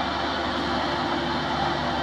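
Rice combine harvester running with a steady mechanical drone of engine and machinery.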